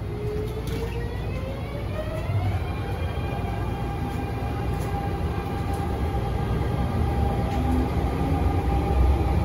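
MTR A-train electric multiple unit pulling away, heard from inside the car. Its traction motors whine in a rising pitch over the first few seconds, then hold a steady note over the low rumble of the running train, which grows louder.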